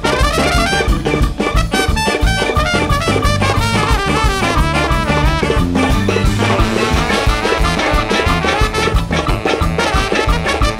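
Large jazz band playing live: a brass and saxophone section carrying the melody over a steady drum beat and bass.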